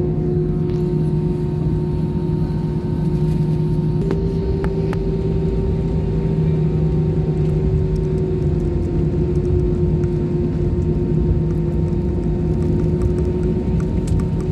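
Airliner cabin noise: a steady engine drone and rumble with a constant hum, its pitch stepping up slightly about four seconds in.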